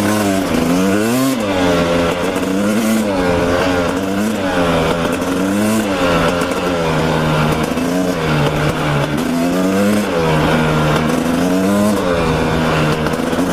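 Dirt bike engine revving up and falling back over and over as the bike is ridden along a trail, settling to a steadier note near the end.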